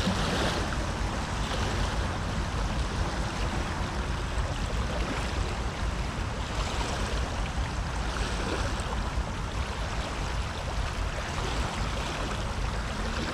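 Water rushing steadily through a flood outflow, an even, unbroken wash.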